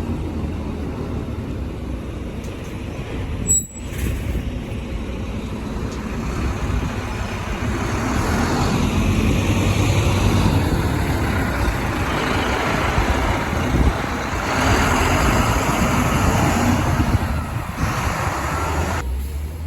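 Diesel engine of a bus running close by, getting louder in two stretches around the middle. The sound breaks off for an instant about three and a half seconds in.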